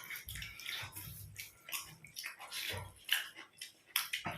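Wet eating sounds: food being chewed and smacked, with many short irregular clicks and squelches.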